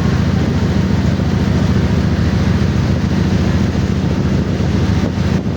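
A boat under way, its engine running with a steady low drone under a rushing haze.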